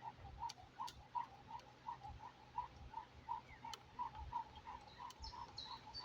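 Jump rope being skipped, with a short chirp on each turn of the rope, about three a second. Soft low thuds come in between.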